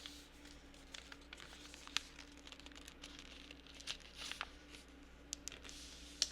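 Sheet of paper being folded and creased by hand: faint crinkling with a few short, crisp clicks as the folds are pressed.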